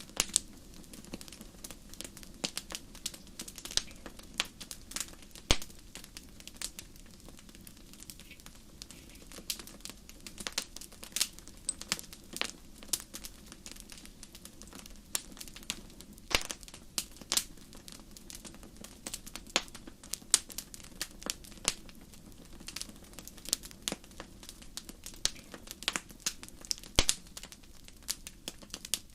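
Wood fire crackling in a fireplace: irregular sharp pops and snaps, sometimes several in quick succession, over a steady low hiss.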